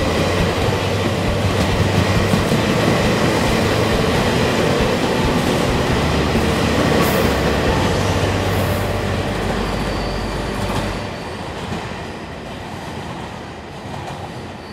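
TRA EMU800 commuter electric multiple unit passing close by on the rails, a loud steady rumble of the train running. About eleven seconds in, the sound drops off sharply as the last car goes by.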